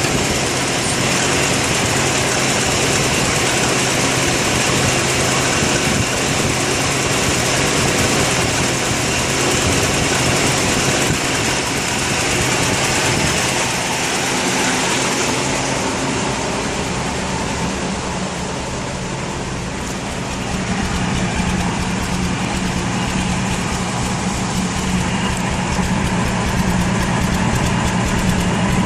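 1965 Mustang's Ford 200 inline six-cylinder engine idling with a misfire that persists despite new plugs, wires, coil, distributor cap and rotor; the owner thinks it is a sticking valve or valves.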